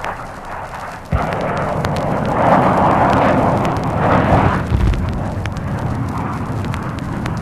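Aerial bomb bursting on the ground: a sudden blast about a second in, then a long rumble that swells twice. Old vinyl record crackle and pops run through it.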